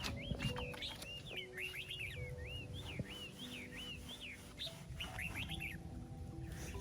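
Small birds chirping busily: a rapid run of short notes that swoop up and down, some in quick clusters.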